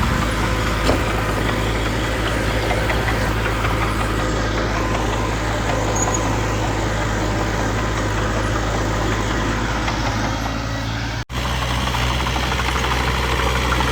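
Heavy diesel engine running steadily at low revs. About eleven seconds in the sound breaks off for an instant, and the engine tone is slightly different after the break.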